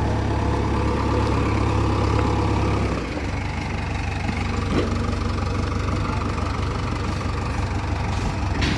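Heavy diesel engine running steadily, louder for the first three seconds and then easing off.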